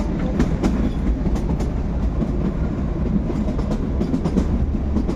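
Narrow-gauge Kalka–Shimla toy train coach in motion: a steady rumble of the wheels on the track with irregular clicks and rattles of the carriage.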